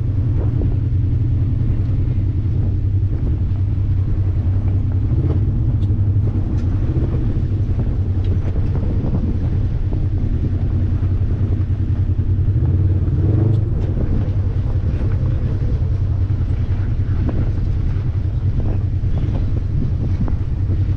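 Off-road side-by-side's engine running steadily while driving a trail, a constant low drone with a slight swell about two-thirds of the way through.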